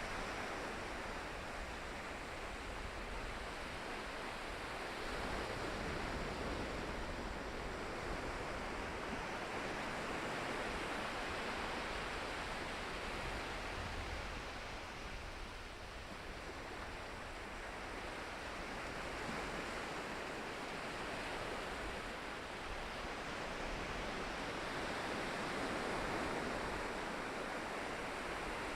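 Ocean surf: waves breaking and washing in a steady rush that swells and eases every several seconds.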